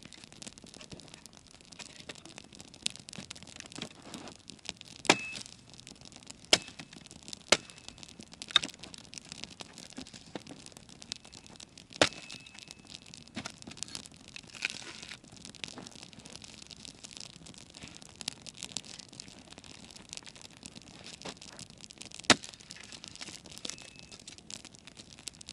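Campfire burning: wood crackling steadily, with several sharp loud pops scattered through.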